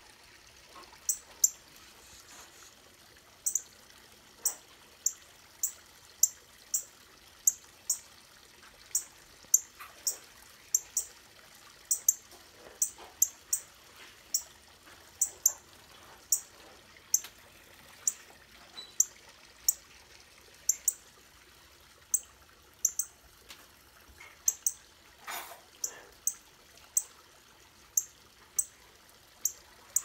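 A bird calling a short, sharp, high chirp that slides down, over and over, about once or twice a second. A brief louder noise cuts in once, about 25 seconds in.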